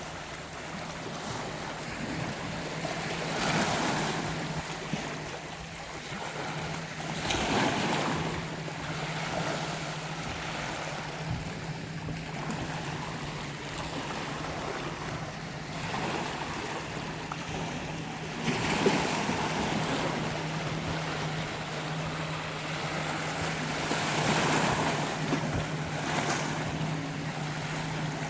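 Sea waves washing in, the surf noise swelling and falling several times, over a steady low hum.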